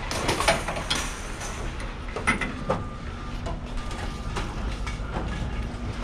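Scattered metal clanks and knocks from scrap being handled, over the steady hum of a running engine.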